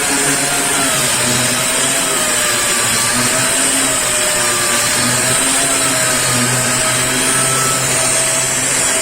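Power sander running steadily while dry-sanding body filler on a car body, a constant hiss with a faint whine that wavers slightly in pitch.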